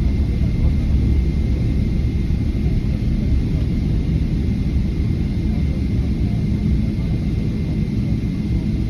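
GE90-115B turbofan engines of a Boeing 777: a steady deep rumble with a faint, thin, high whine held over it.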